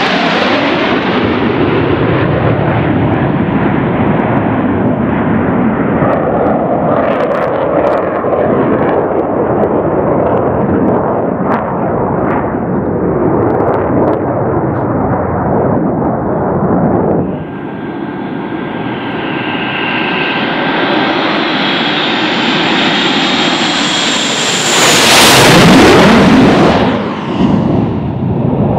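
Blue Angels F/A-18 Hornet jets flying low: a loud, continuous jet roar that drops off about 17 seconds in to a steadier whine. A loud fly-past follows about 25 seconds in, its pitch falling as it goes by.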